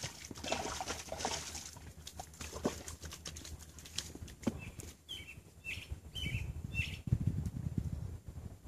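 Scattered clicks and rustling, then a small bird calling a run of short, falling chirps from about five seconds in, with a low rumble starting near the end.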